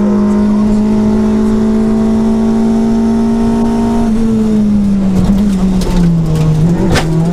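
Renault Clio rally car's engine heard from inside the cabin, held at steady high revs, then the revs drop and waver about four seconds in as the car comes off the throttle for a bend. There is a sharp knock near the end.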